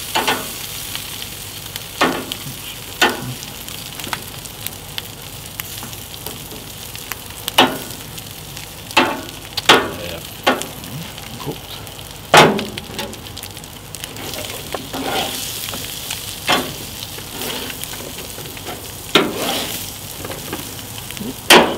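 Sausages and diced potatoes frying on a gas grill's grates and griddle plate, a steady sizzle. About a dozen sharp metallic clacks at irregular intervals as steel tongs and a spatula knock against the grate and plate while the food is turned, the loudest about halfway through.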